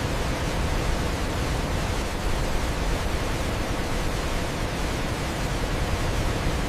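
Waterfall: water falling and crashing in a steady, unbroken rush, deepest in the low end.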